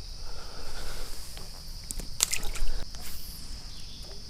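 Crickets trilling steadily in a high, even chorus, with a few short water splashes and sloshes about two seconds in.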